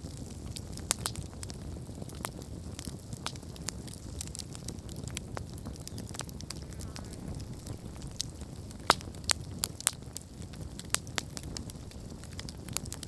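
Wood campfire burning: a steady low rumble of the flames with irregular sharp crackles and pops, a few louder pops about nine to eleven seconds in.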